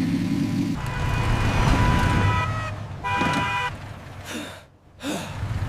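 Vehicle engine sound effect running, then a car horn honking about three seconds in.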